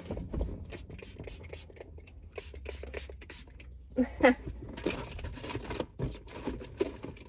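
Small objects being handled: a series of short clicks and scrapes, with a brief vocal sound about four seconds in, over a low steady hum.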